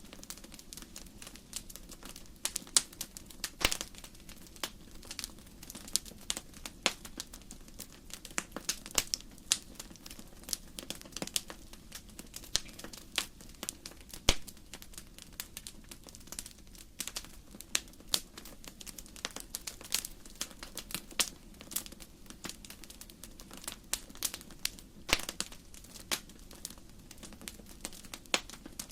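Wood fire crackling steadily, with frequent sharp irregular pops and snaps of burning logs over a low steady rush of flame.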